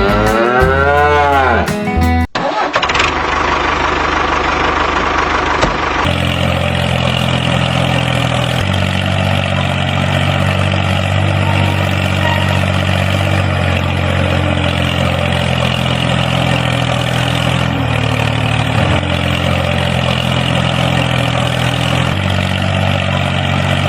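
Tractor engine running steadily, from about six seconds in after a short noisy stretch. Before a sudden cut about two seconds in, a wavering pitched sound rises and falls.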